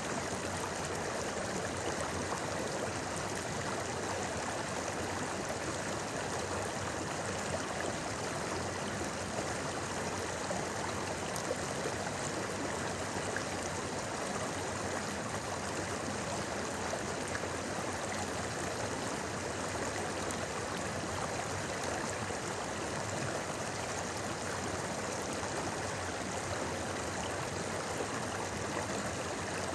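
A clear, shallow river or stream flowing over rocks, burbling steadily without break.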